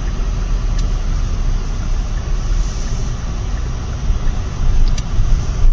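Steady road and engine noise inside a moving car's cabin, a low rumble with no voices.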